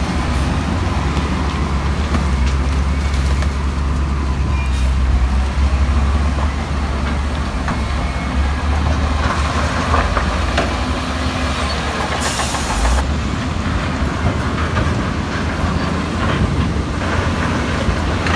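Heavy diesel earthmoving machinery working: a steady low engine drone with a clattering metallic rattle throughout, and a short hiss about twelve seconds in.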